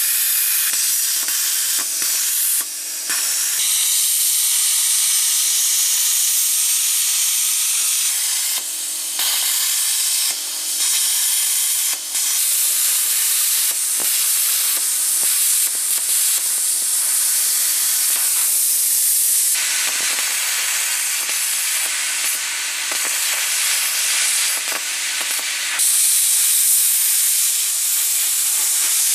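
Air plasma cutter's arc hissing steadily as it cuts thin dishwasher sheet metal, dipping briefly a few times.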